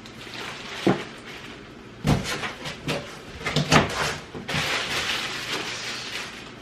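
Stroller parts and packaging being handled: a run of knocks and clatters, then a stretch of rustling or scraping from about four and a half seconds in.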